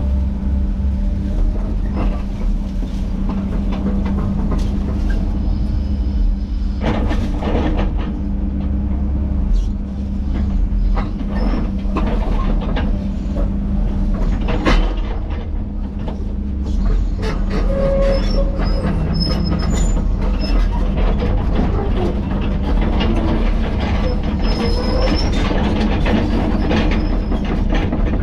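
Tracked heavy equipment with its diesel engine running steadily while it works, with many sharp clanks and knocks throughout and short metallic squeals in the second half.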